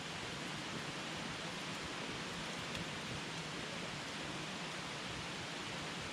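Wood campfire burning with a steady hiss, with a couple of faint pops from the burning wood.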